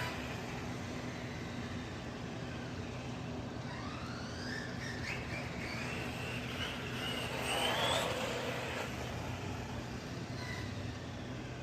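Team Associated Rival MT8 RC monster truck's brushless electric motor whining as it is driven, the pitch rising and falling with the throttle and climbing highest about eight seconds in. A steady low hum runs underneath.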